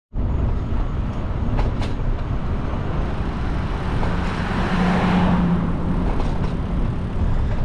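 Steady road and wind rumble while cycling in city traffic. A motor vehicle passes about five seconds in, its engine hum swelling and then fading.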